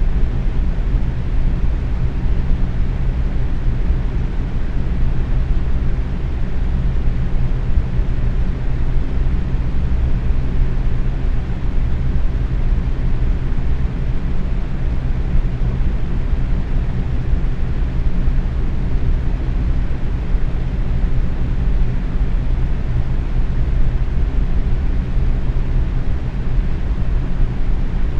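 Box fan running steadily at medium speed: an even rushing of air with a low hum from the motor and blades.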